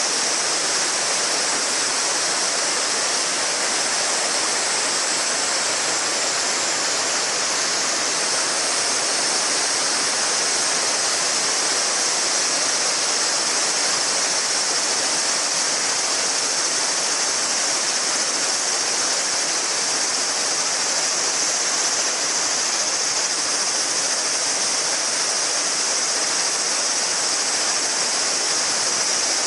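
Shallow river murmuring steadily over its bed, with a dense chorus of summer cicadas giving a continuous high-pitched shrill over the water.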